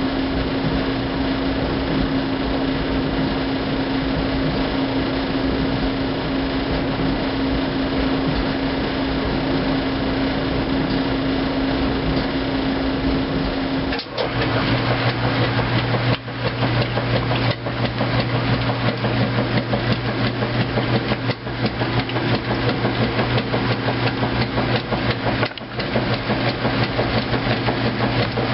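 2008 Kenmore top-load washing machine running its heavy duty cycle: a steady hum over a rush of noise, which about halfway through drops to a lower hum with rapid knocking and clunking.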